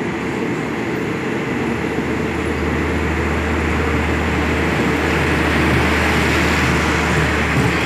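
Passenger train carriages rolling past along a station platform, a steady rumble of wheels and running gear. A low steady hum joins about two seconds in.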